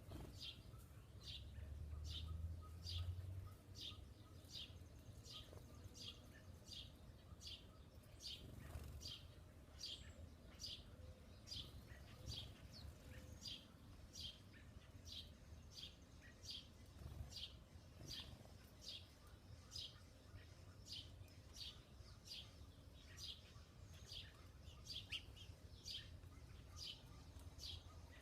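A bird chirping the same short high note over and over, about one and a half chirps a second, over a faint low background rumble.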